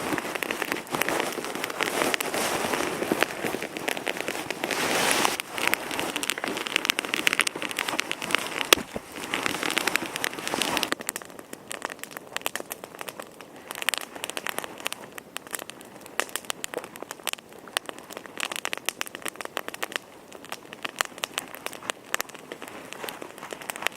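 Teepee campfire of twigs and branches burning, with dense crackling and popping that is busiest in the first half and thins to sparser crackles about eleven seconds in.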